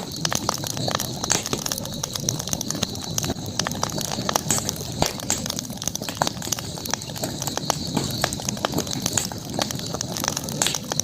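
Campfire burning with constant irregular crackles and small pops, over a steady high-pitched hiss.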